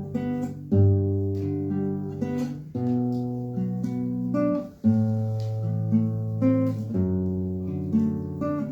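Acoustic guitar strumming chords, a new chord struck every second or two over a moving bass line: the instrumental passage between sung lines of a folk ballad.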